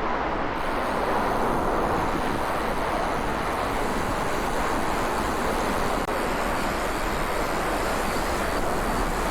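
Steady rushing noise heard while cycling on the road, of traffic and moving air, with no distinct events.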